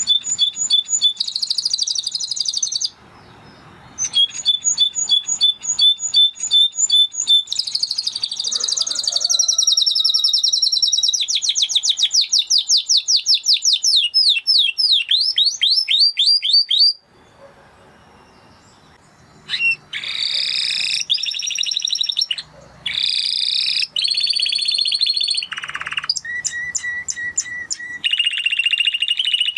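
Spanish Timbrado canary singing: phrase after phrase of fast trills of repeated high notes, with a run of quick sweeping notes in the middle. The song breaks off briefly about three seconds in and again for about two seconds past the halfway point.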